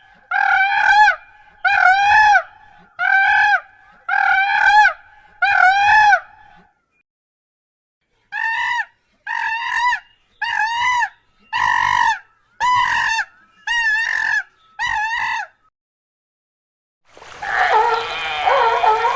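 A bird calling loudly over and over, about once a second, each call rising and then falling in pitch: six calls, a pause of about two seconds, then eight more. Near the end a denser jumble of overlapping calls begins.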